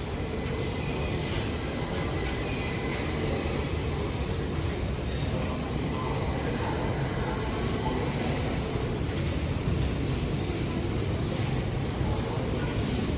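Stockholm Metro train running: a steady rumble with thin, high whining tones held over it.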